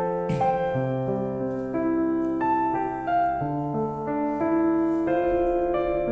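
Background music: a solo piano playing slow, sustained chords, the instrumental intro before a song's vocals come in.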